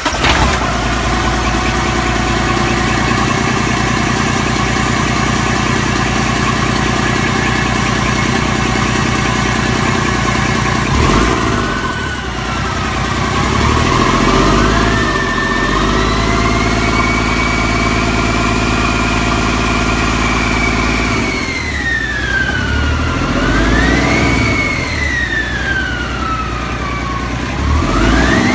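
Cummins ISX EGR inline-six diesel engine firing up and settling into a steady idle, then revved up in stages after about eleven seconds, held at higher revs, let fall back and revved up again a couple of times during a test run.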